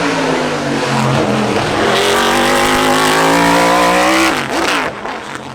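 Race car engine at full throttle, its pitch climbing steadily for about four seconds as it accelerates up the hill; the note then drops abruptly and the sound fades as the car goes away.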